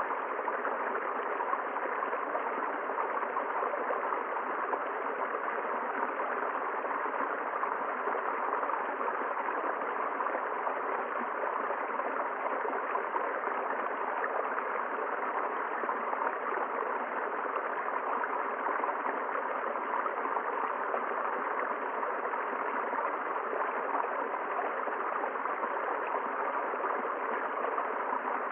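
River water flowing steadily over its bed, an even rushing with no change in level.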